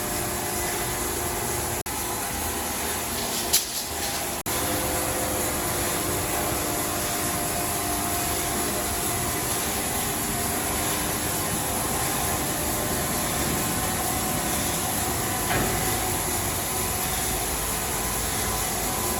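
Heavy sawmill machinery running steadily, with a sharp click about three and a half seconds in.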